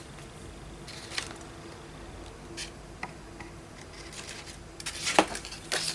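Paper being handled on a craft table: scattered light rustles and taps, busier near the end with one sharper click.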